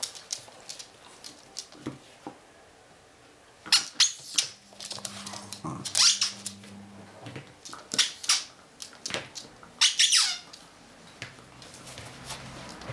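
A dog's squeaky toy squeaking in short, high-pitched bursts a few seconds apart as the dog chews it.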